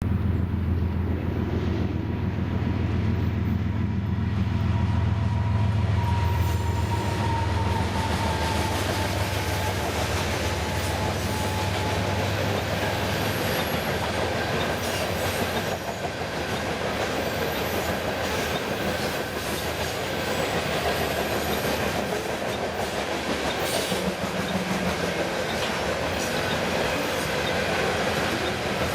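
Freight train passing close by: diesel locomotive engines running with a strong low hum for the first dozen seconds or so, then the freight cars rolling past with steady wheel-on-rail noise, clickety-clack and a faint high squeal.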